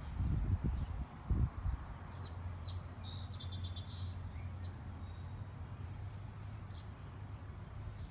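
Small birds chirping in short high calls over a steady low hum, with two dull low thuds in the first second and a half.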